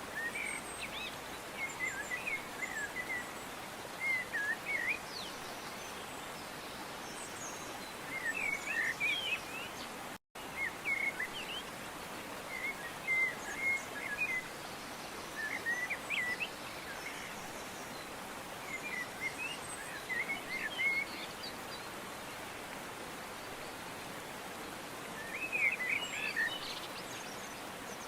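Songbirds chirping in short quick phrases every few seconds over a steady outdoor hiss, with a momentary drop to silence about ten seconds in.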